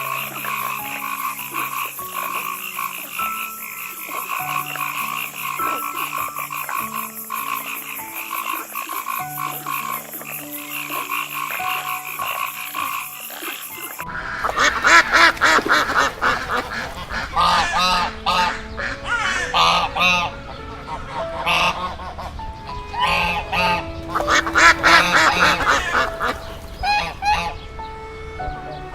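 A chorus of animal calls, many short croaking calls repeated over and over, changing in character about halfway through.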